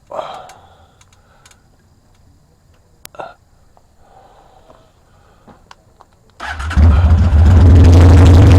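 Motorcycle engine started about six seconds in, catching at once and then idling loudly and steadily. Before it starts, only a few faint clicks and knocks.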